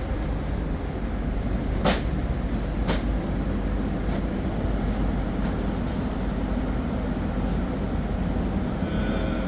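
A motor vehicle driving, a steady low rumble, with two sharp knocks or rattles about two and three seconds in.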